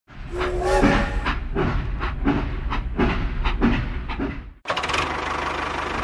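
Battery-powered toy steam locomotive playing its built-in chugging and whistle sound effect, in a quick uneven pulse. The sound cuts off suddenly about three-quarters of the way through, and a steady buzz of the toy's small motor driving it along the plastic track follows.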